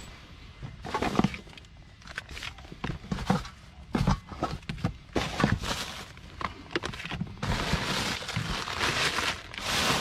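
Rummaging through a pile of household rubbish: irregular knocks and clatters of objects being shifted, with a longer stretch of rustling in the last couple of seconds.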